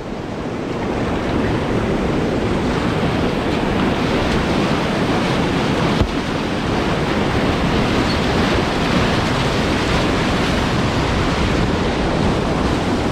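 Steady rushing of whitewater pouring over a river ledge into a hole, with one sharp click about six seconds in.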